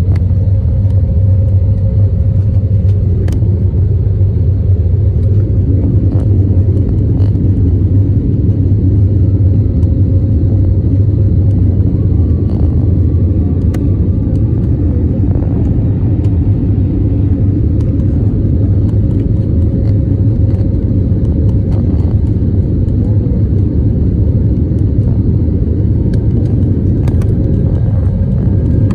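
Airliner noise heard from inside the cabin: a steady, loud low rumble of jet engines and airflow, with a faint steady hum above it.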